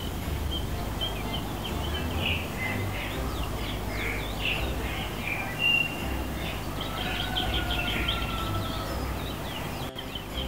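Several small birds chirping and singing at once, with many short, quick overlapping calls and a thin drawn-out whistle near the end, over a low rumble.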